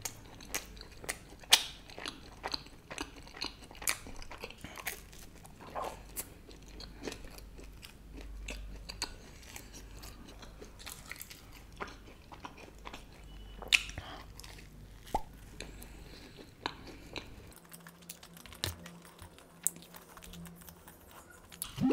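Close-miked chewing of a mouthful of cheese pizza, with many short, irregular wet mouth clicks and small crunches.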